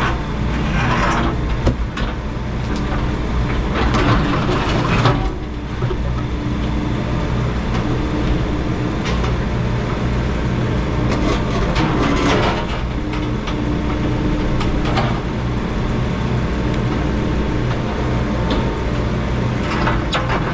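Excavator's diesel engine running steadily under load, with the bucket scraping and crunching against concrete slabs as they are ripped out, in several rough swells: about a second in, around four to five seconds, near twelve seconds and near the end.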